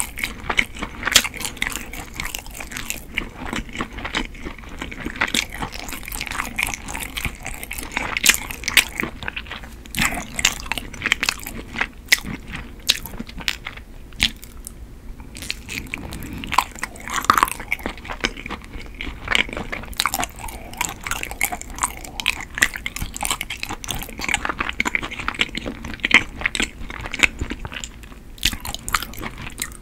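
Close-miked chewing and biting of soft, chewy Korean rice cake (tteok): a dense run of short, wet mouth clicks and smacks.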